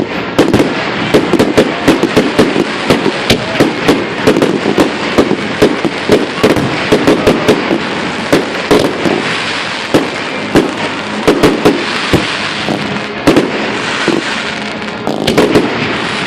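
Fireworks going off in a dense barrage of sharp bangs and crackles, several a second. It thins briefly shortly before the end, then picks up again.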